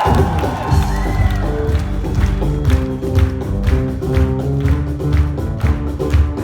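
Live acoustic band playing an instrumental passage of a soul-pop song: a steady beat of about two strikes a second over held bass and chord notes.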